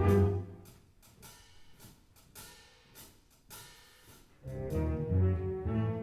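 Concert wind band playing: a loud held chord breaks off just after the start, a few seconds of quiet pause with faint clicks, then the band comes back in with rhythmic low chords about four and a half seconds in.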